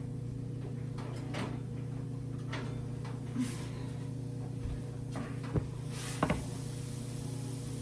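Kitchen handling sounds: several light knocks and clicks, with a louder clatter about six seconds in. Under them runs a steady low appliance hum.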